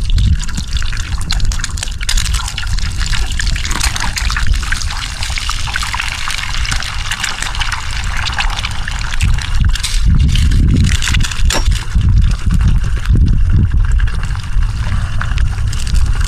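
Steady rain falling, a dense patter of drops, with wind gusts rumbling on the microphone, strongest about ten to fourteen seconds in.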